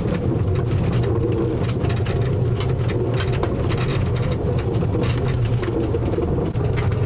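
Narrow-gauge tourist train running, heard from inside one of its small carriages: a steady rumble with frequent rattling clicks.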